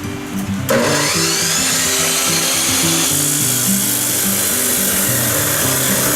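A power tool starting abruptly under a second in and running steadily with a harsh, hissing high-pitched noise, over background music.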